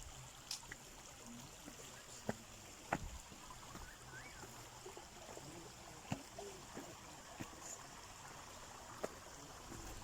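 Small creek faintly trickling over rocks, with scattered sharp clicks and knocks, the loudest about three seconds in.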